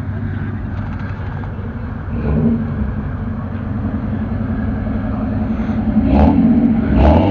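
Modified car engine running with a loud exhaust rumble, getting louder about two seconds in and again around six seconds.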